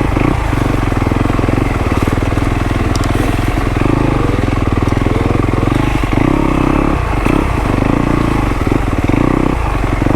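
Dirt bike engine running steadily at low revs while the bike crawls through rough ground, with a few brief dips where the throttle is eased off.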